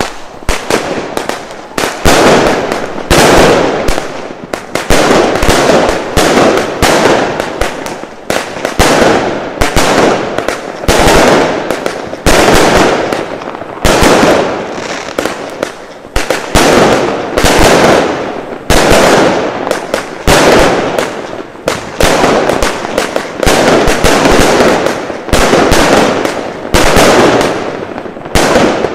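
Consumer firework cake (multi-shot battery) firing shot after shot. There is one loud report about every second, each a sharp launch and aerial burst, sometimes with smaller pops between.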